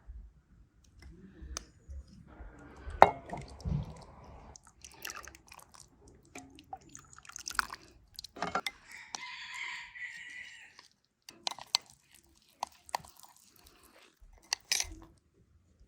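Kitchen handling sounds while dry yeast is measured out with a teaspoon for bread dough: scattered light clicks and knocks of spoon and containers, one sharp knock about three seconds in, and a steady hiss lasting about two seconds near the middle.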